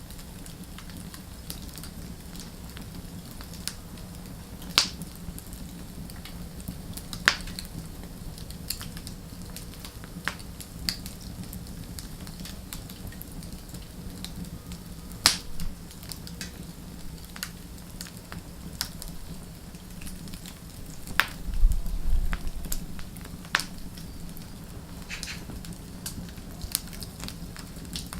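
Wood fire burning: scattered sharp crackles and pops from the burning logs over a steady low rumble of flame. About three-quarters of the way through comes a louder, denser run of crackling with a low thud.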